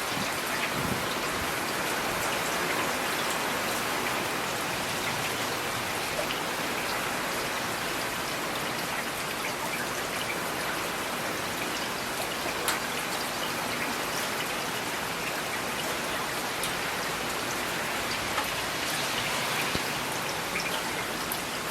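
Steady rain, a dense even hiss with scattered individual drops ticking on a hard surface.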